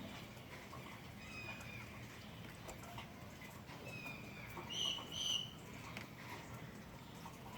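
A bird calling in short whistled notes, the loudest two calls in quick succession about five seconds in, over faint scattered ticks.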